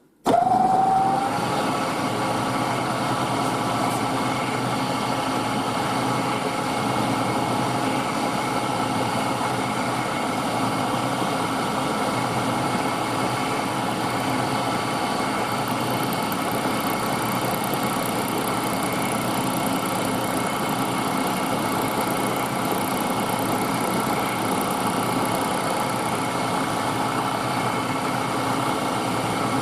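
Milling machine starting up with a brief rising whine, then running steadily.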